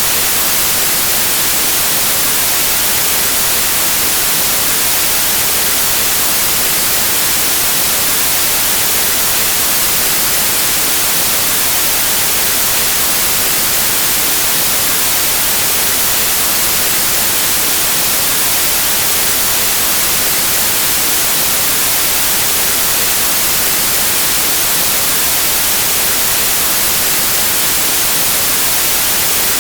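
Steady white noise: an even hiss of static with no changes, strongest in the treble.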